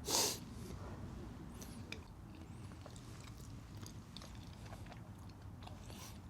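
A person eating: a short, loud crunching bite just after the start, then quiet chewing with small mouth clicks.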